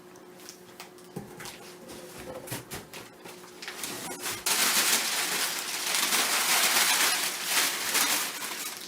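Cardboard box packaging being handled and torn open. Light taps and rustles at first, then from about halfway a loud, continuous rasping rustle of cardboard and packing for about four seconds.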